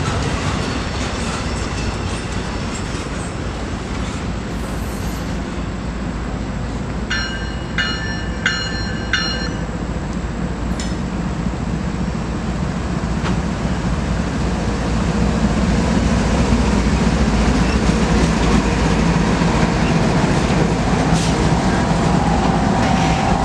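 Freight train rolling past: a steady rumble of wheels on rail that grows louder in the second half. A few short, high ringing pings come at about two a second, about a third of the way in.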